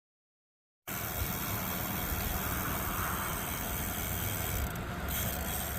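Wind rushing over the microphone of a moving bicycle rider: a steady low rumble with a hiss above it. It cuts in abruptly under a second in, after dead silence.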